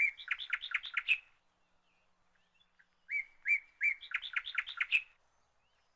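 A songbird singing two phrases about two seconds apart. Each phrase opens with short level whistles and runs into a quick series of chirps, about six a second, ending on a higher note.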